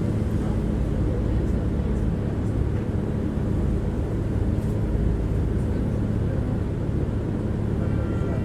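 Tram running along the rails, heard from inside the passenger car: a steady low rumble of wheels on track with a constant motor hum.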